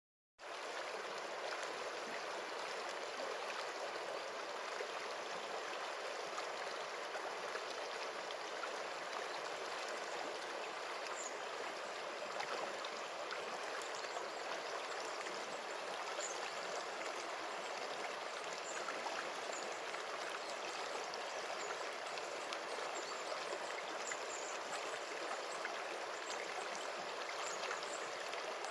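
Stream water flowing steadily, an even rushing that starts about half a second in, with a few faint high chirps now and then.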